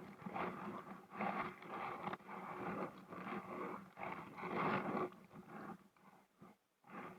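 Kayak paddle strokes in water: the paddle blade dipping and pulling through the river in uneven swishes about once a second, with splashing and dripping.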